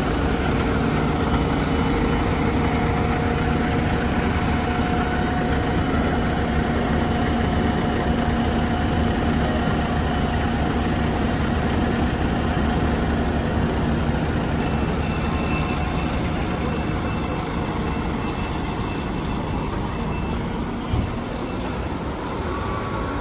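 Fire truck's diesel engine running steadily at a loud, even level, with several steady droning pitches. About two-thirds of the way through, a high steady whine joins for roughly five seconds.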